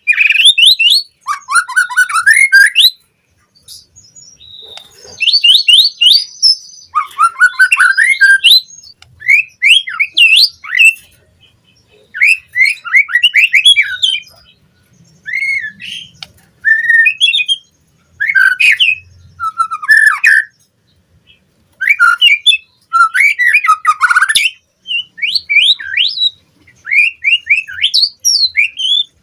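White-rumped shama singing in full voice: rapid phrases of varied whistles, trills and harsh notes, each a second or two long, with short pauses between them.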